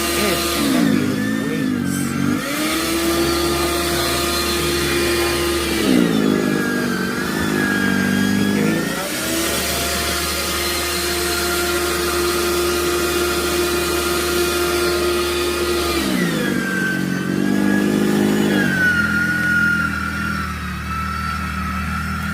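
Electric snowblower running with a steady motor whine. Its pitch sags several times as it takes in snow, then climbs back.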